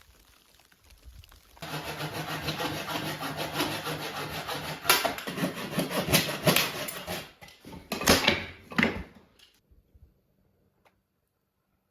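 Steady rasping scraping on wood for about eight seconds, with a few sharp knocks near the end, then it stops.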